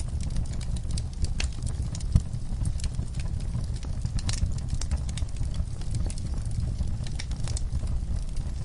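Wood fire crackling in a fireplace: frequent sharp snaps and pops over a low steady rumble, with one louder pop about two seconds in.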